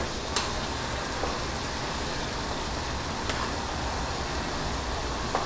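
Ground meat sizzling steadily as it fries in a pan, with a few sharp clicks of a spoon against the pan as the meat is broken up.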